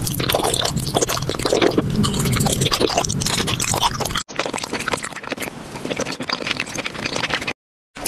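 Close-miked crunching and chewing of hard candy, a dense run of crackly clicks and crunches, as in ASMR eating audio. It cuts out briefly about four seconds in and again near the end.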